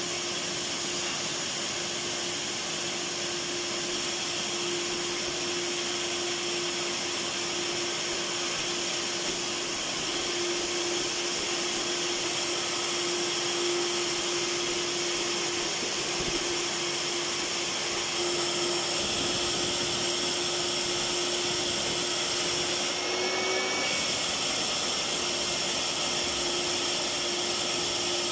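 Electric vacuum cleaner running steadily: an even rushing of air over a constant motor hum, with a brief wobble in pitch and a short burst of extra hiss about two-thirds of the way through.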